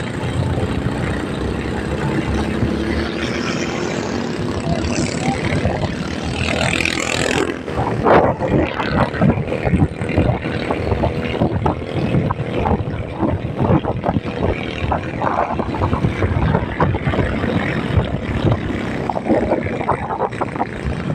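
A vehicle on the move: steady engine and road noise, turning choppy and uneven from about eight seconds in.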